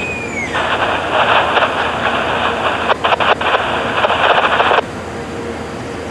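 A railroad scanner radio opening with a short falling chirp, then a burst of hissy, tinny transmission noise with no clear words that lasts about four seconds and cuts off abruptly as the squelch closes. A steady low background rumble runs underneath.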